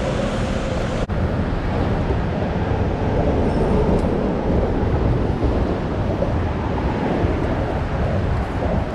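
Wind buffeting the microphone: a steady, loud rumbling rush, with a brief dropout about a second in.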